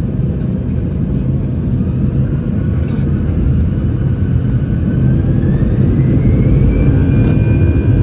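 Airbus A319's CFM56 turbofan engines heard from inside the cabin: a steady deep rumble with a thin whine that rises in pitch over a couple of seconds and then holds steady as the engines spool up and the rumble grows louder.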